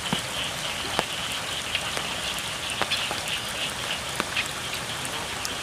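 Steady rain falling on the rice paddies, with scattered sharp drips, under a continuous high-pitched chorus of frogs calling.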